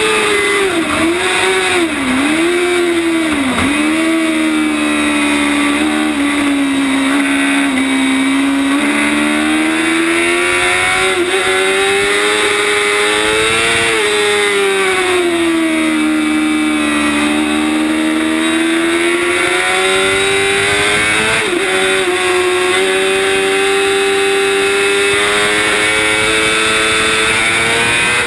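Yamaha R6's 600 cc inline-four engine at racing revs, heard from on board over steady wind rush. The pitch falls with three quick dips in the first four seconds, then rises and falls with the corners, running high and steady near the end.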